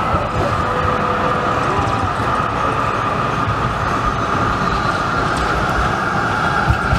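Electric trams and road traffic running on a busy city street: a continuous steady noise with a constant high hum.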